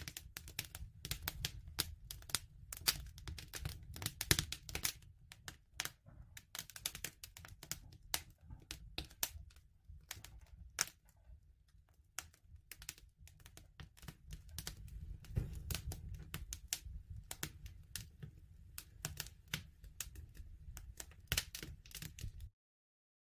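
Wood fire crackling, with irregular sharp pops and snaps over a low rumble; it cuts off abruptly to silence near the end.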